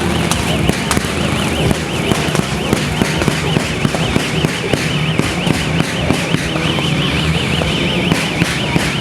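Rapid crackling pops, several a second, over a steady low rumble, with a warbling siren-like tone that sounds near the start and comes back in the second half.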